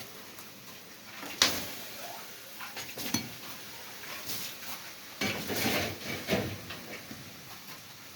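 Metal cooking utensils knocking and scraping against a pot: a sharp clank about a second and a half in, another near three seconds, then a run of scraping and clatter around five to six and a half seconds.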